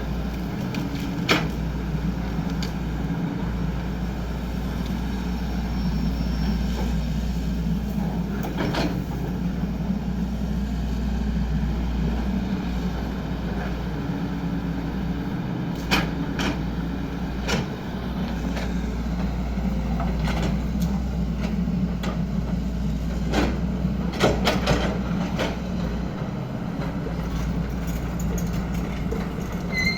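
XCMG 75 excavator's diesel engine running steadily under work, with a scattering of sharp knocks and clanks from the machine, several of them bunched in the second half.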